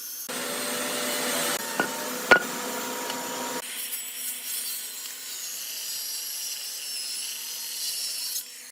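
A tool sawing or rasping wood in a steady scrape, with two sharp knocks about two seconds in. The sound changes abruptly twice, the way it does at cuts between shots.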